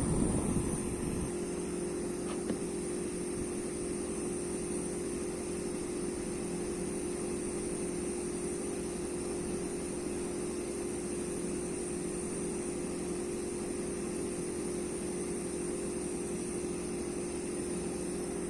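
Electric fan heater running steadily: an even hum with a steady mid tone and a faint high whine.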